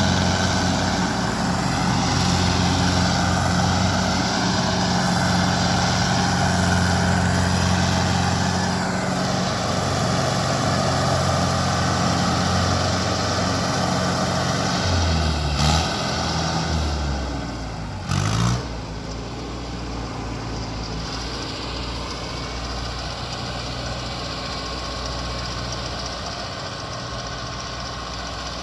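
Mahindra Arjun 555 DI tractor's four-cylinder diesel engine running steadily. About halfway through, its pitch shifts and two short loud knocks sound, after which it runs more quietly.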